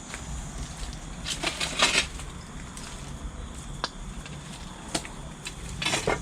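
Footsteps crunching over debris on the floor, two clusters of gritty crunches with a few sharp clicks between them.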